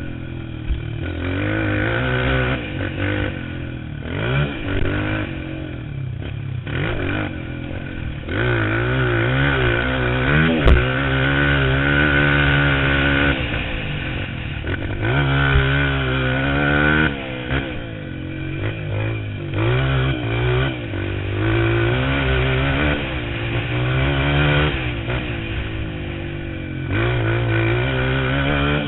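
Motocross bike engine revving hard, its pitch repeatedly rising and falling as the throttle opens and closes, with one sharp knock about ten seconds in.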